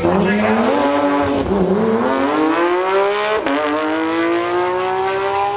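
Car engine at full throttle in a roll race, its pitch climbing steadily and dropping sharply with upshifts about three and a half seconds in and again at the end.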